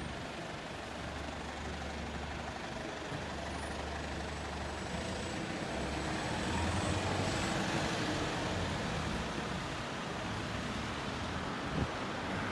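A large road vehicle, such as a bus, running in traffic: a steady engine rumble with road noise that swells and then eases off in the middle. A short knock comes near the end.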